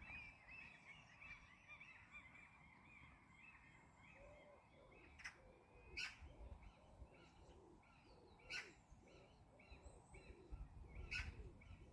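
Faint birdsong by a river: a busy chatter of high chirps at first, then a long run of low repeated calls through the middle. A few sharp clicks stand out over it.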